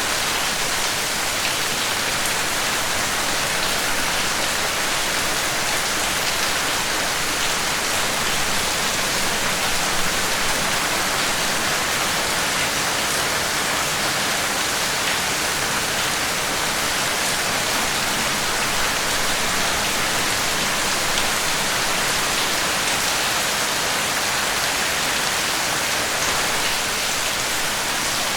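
Steady, dense rainfall: a continuous hiss of many drops hitting a surface, with faint individual drop ticks and no change in intensity.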